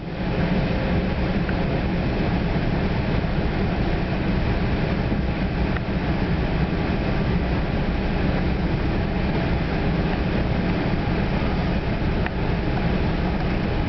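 Steady rumble inside a New Jersey Transit Comet VI multilevel coach running at speed, its wheels rolling on the rails. A faint click comes about six seconds in and again near the end.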